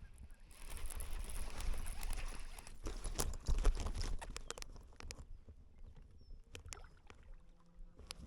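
Water and handling noise on a fishing kayak: a rush of splashing noise over the first few seconds, with scattered sharp knocks that thin out into a quieter stretch near the end.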